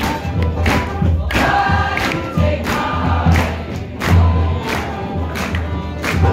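Live acoustic band music with several voices singing together, a stand-up bass holding the low notes, over a steady beat of sharp hits at about two to three a second.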